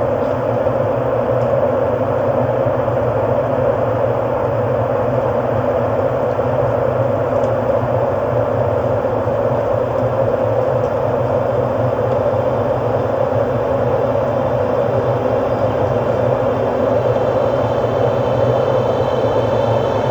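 Steady, unchanging ambient drone: a dense rumbling whir with no beat or melody.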